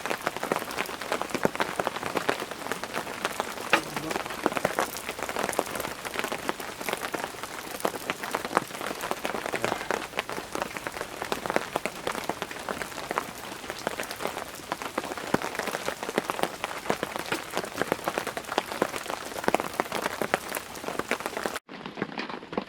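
Steady rain, drops pattering densely as many small sharp ticks; it cuts off suddenly near the end.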